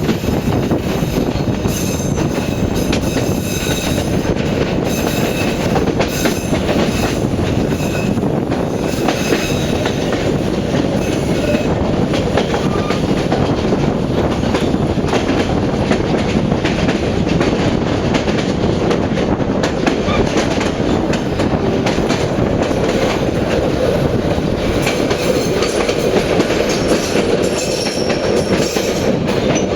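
Passenger train on the Vietnamese North–South railway running steadily: a continuous rumble of wheels on track with irregular clicks from rail joints, and brief faint high squeals from the wheels here and there.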